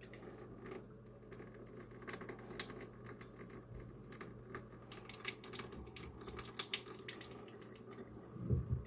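Water trickling and dripping, with many small scattered clicks and splashes, and a louder low knock near the end.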